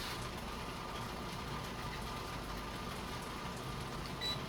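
Electric fan running with a steady hum and low rumble. A brief high chirp sounds near the end.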